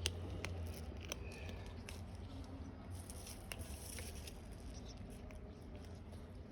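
Cats eating: faint chewing with scattered small clicks, over a steady low hum.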